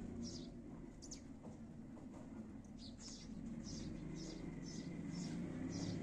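A small bird chirping, with short, high chirps scattered at first and then repeating about twice a second from about halfway in, over a low steady background rumble.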